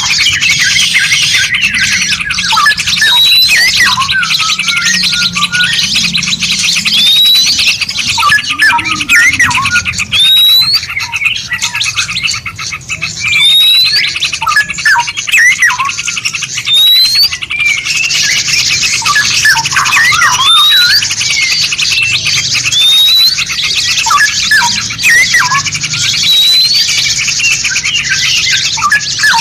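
Several songbirds chirping and whistling over one another, as in a masteran song-training recording. A short rising whistle repeats about every second and a half over a dense, high, continuous chirring.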